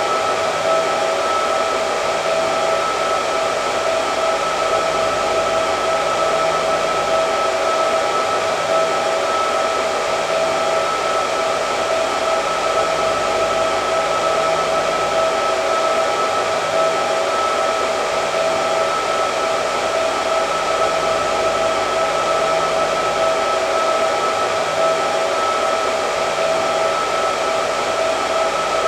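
Hair dryer running continuously: a steady rushing of air with a constant motor whine on two fixed pitches, never changing.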